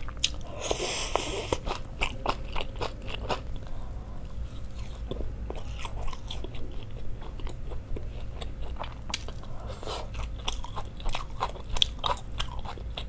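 Close-miked mouth sounds of chewing a mouthful of kimchi, with many crisp, crunchy clicks throughout and a brief noisy rush of mouth sound about a second in.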